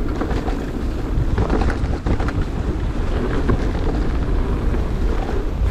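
Wind buffeting the microphone and tyre noise from a mountain bike riding downhill on a wet trail, with scattered clatters and knocks from the bike over rough ground.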